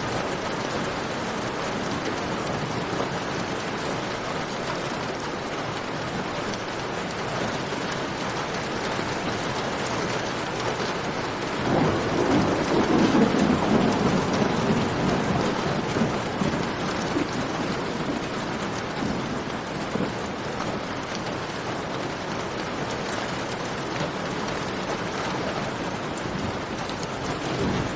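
Steady heavy rain with faint campfire crackle. About twelve seconds in, a low rumble of thunder swells for a few seconds and fades.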